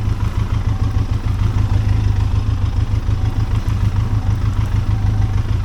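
Benelli TRK 502X parallel-twin motorcycle engine idling steadily, a constant low rumble.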